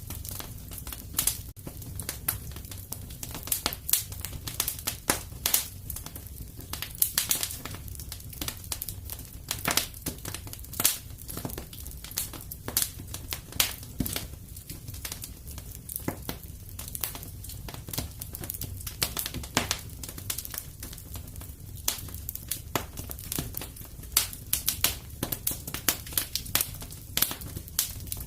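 Wood fire in a fireplace crackling: sharp snaps and pops at irregular intervals over a low, steady rumble.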